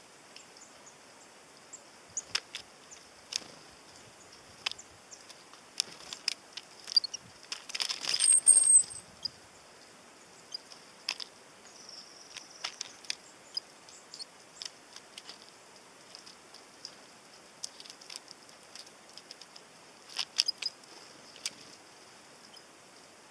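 Tits at a sunflower-seed feeder: scattered sharp taps and clicks of beaks pecking at seeds and the feeder, with a louder flurry of wingbeats about eight seconds in and a brief high chirp.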